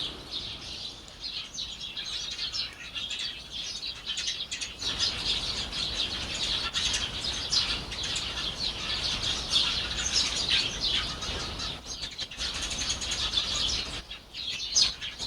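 Small birds chirping busily, many short calls overlapping without a break.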